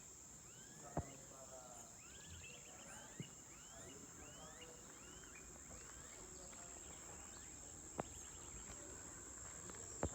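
Countryside ambience: a steady high-pitched insect drone, with birds chirping repeatedly for the first several seconds. A wood fire pops sharply four times, about a second in, near three seconds, near eight and at the end.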